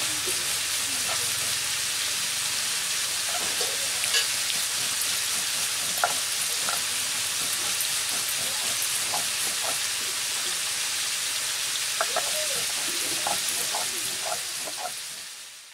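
Steady sizzling of vegetables frying in a wok over a wood fire, with a few light knocks.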